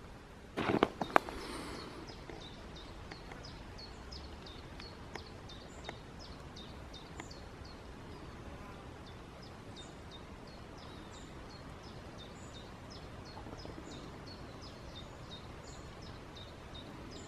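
Woodland ambience with a small bird chirping over and over in short, high, falling notes, a few each second. About half a second in there is a brief loud knock and rustle.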